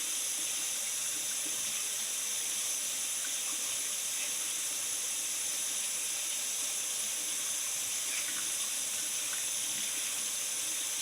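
Water tap running steadily into a sink, the hot water left on to warm up.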